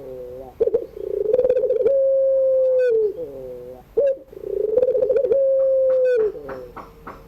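Puter pelung, a long-voiced strain of ringneck dove, cooing: two phrases, each a short note followed by a long held coo that drops in pitch as it ends. Near the end come fainter short high chirps.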